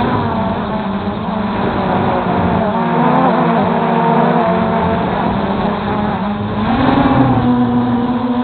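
MJX Bugs 3 quadcopter's brushless motors and propellers whining in flight, the pitch wavering constantly as the motors speed up and slow down. The pitch steps up about seven seconds in.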